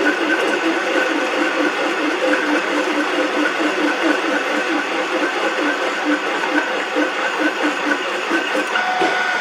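Metal lathe running, with steady whining tones over a rhythmic pulse of about five beats a second; a further tone comes in near the end.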